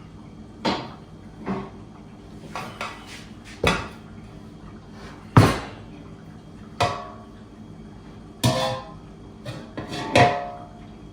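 Kitchen utensils and metal bakeware being handled: about ten irregular knocks and clatters, some ringing briefly, the loudest about halfway through, over a faint steady low hum.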